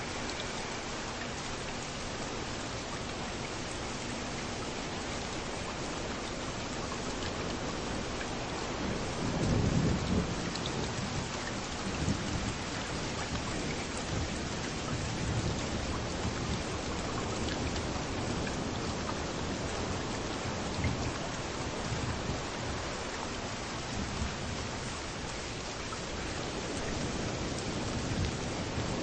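Steady rain falling on a beach, with waves rolling in underneath as deep rumbling swells; the loudest swell comes about a third of the way in.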